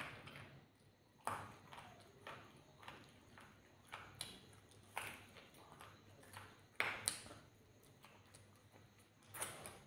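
Close-up eating sounds of a person chewing chicken curry and rice: faint wet chewing with a dozen or so short, irregular lip smacks and clicks, the loudest a little after halfway.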